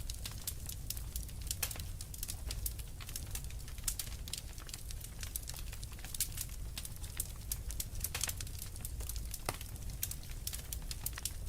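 Fire crackling: a dense, irregular run of small pops and snaps over a steady low rumble, with a few louder snaps in the last third.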